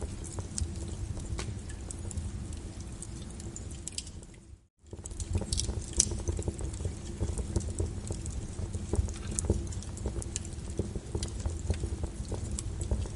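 Wood fire burning in a fireplace: a steady low rumble with frequent sharp crackles and pops of burning logs. The sound fades out for a moment just under halfway through, then comes back.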